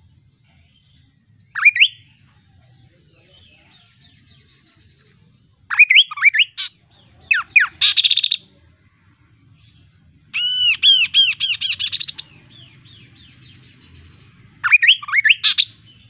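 Kaso-kaso bird singing loud phrases of quick, arching chirps, five bursts with short pauses between them; the longest, about ten seconds in, is a run of rapid repeated notes lasting nearly two seconds.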